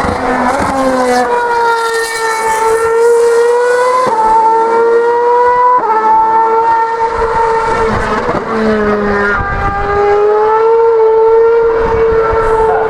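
2013 Formula One cars' 2.4-litre V8 engines running at high revs on track, a loud high-pitched scream that holds a steady pitch and steps abruptly up or down a few times.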